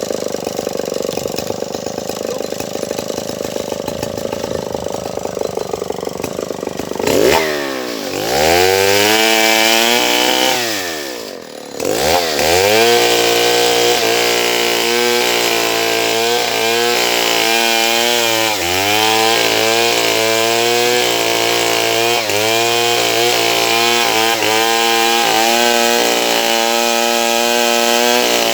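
Stihl 070 two-stroke chainsaw idling, then revved hard about seven seconds in. After a brief drop near the middle it runs at full throttle, cutting into wood, its pitch dipping every second or two as the chain bites.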